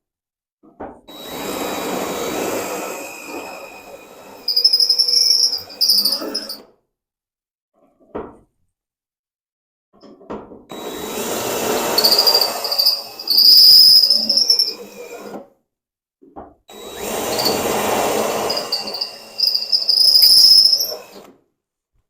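Power drill boring into car-body sheet steel to drill out factory spot welds, in three runs of about five seconds each. The later part of each run has a high, piercing squeal.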